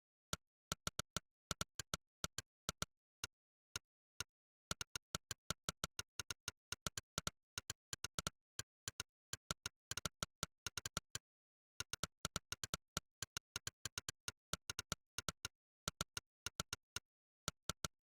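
Monkeytype's synthetic 'click' keystroke sound: one sharp click for every key typed, in quick irregular runs of several clicks a second with brief pauses, over dead silence.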